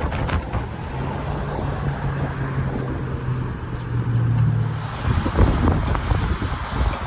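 Wind buffeting the microphone on the open upper deck of a moving double-decker tour bus, over the bus's low engine drone. The drone holds steady for a few seconds, then the wind gusts come in harder.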